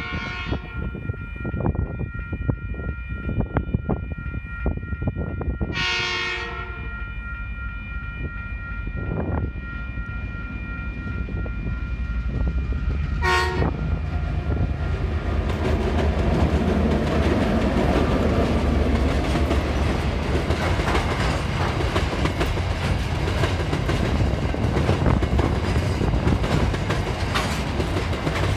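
TasRail DQ class diesel locomotive sounding its horn: a blast just at the start, a second about six seconds in, and a short toot about thirteen seconds in. The locomotive's engine then passes close by, followed by empty ballast hopper wagons clattering over the rails, and the sound grows louder as the train goes by.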